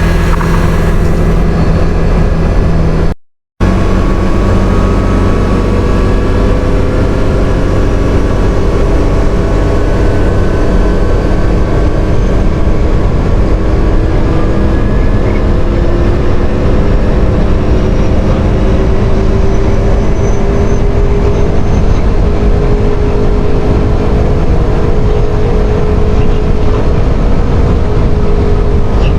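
CFMoto CForce 850 XC quad bike's V-twin engine running at road speed under heavy wind rush on the microphone, its pitch slowly rising and falling. The sound drops out completely for a moment about three seconds in.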